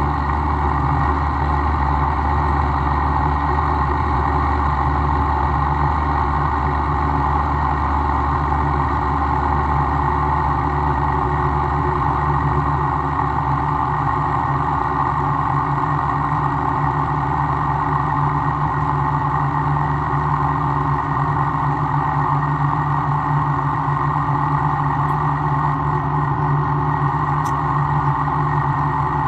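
A workshop machine running steadily with a constant hum and no strikes or changes in speed.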